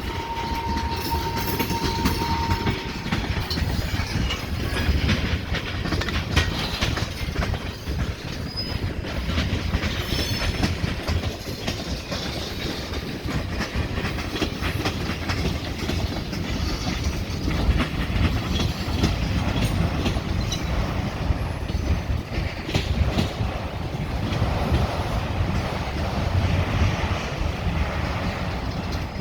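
Freight cars of a long mixed freight train rolling past, wheels clacking steadily on the track, with a thin wheel squeal in the first few seconds.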